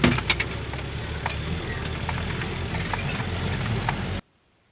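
Wind rumbling on the microphone with scattered short clicks and rustles. It cuts off abruptly to near silence a little after four seconds.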